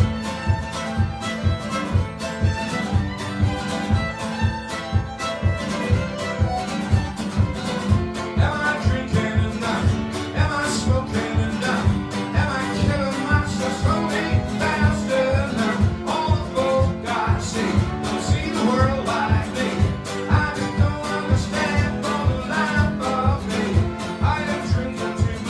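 Live folk band playing an instrumental break: a fiddle plays a lively melody over strummed guitar and a steady beat. The fiddle line becomes prominent about a third of the way in.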